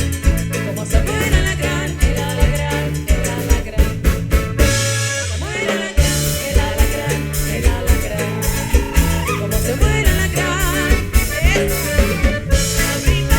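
A folk band playing: accordion, guitar, electric bass and drum kit, with a steady beat. About five seconds in the drums drop out briefly under a falling slide, and the full band comes back in about a second later.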